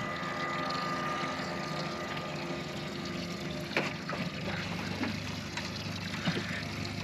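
Boat motor running steadily on the water, with a faint whine that fades out about two seconds in and a few light knocks against the hull.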